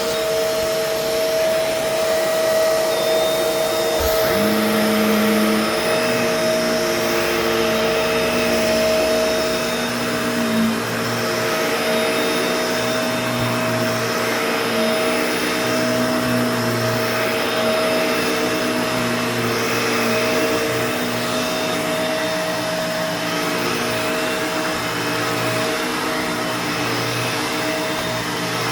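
Bissell Pet Hair Eraser Turbo upright vacuum running loudly and steadily. A whistling, grinding tone underneath comes and goes and shifts in pitch, which the owner cannot account for and does not take for cyclone noise.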